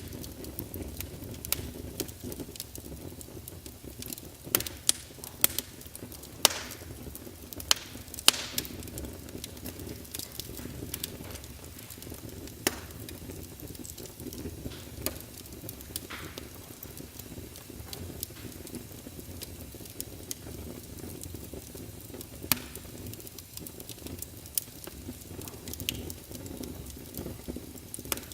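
Wood fire burning in a fireplace: a steady low rush of flames with constant small crackles and occasional sharp pops from the logs.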